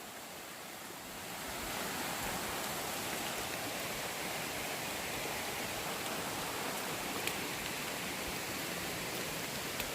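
Steady rushing noise of water, growing louder about a second in and then holding even, with a couple of faint ticks.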